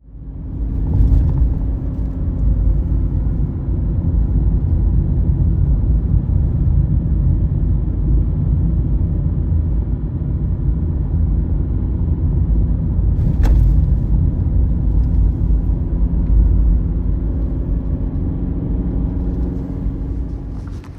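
Engine running at a steady speed with a constant hum under a heavy low rumble, and one sharp knock about two-thirds of the way through.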